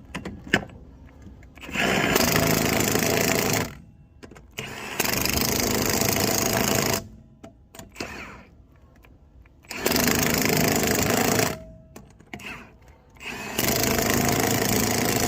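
Cordless Milwaukee impact wrench on a low torque setting, hammering lug nuts tight on a truck wheel. Four bursts of about two seconds each, one per nut, with short pauses between them.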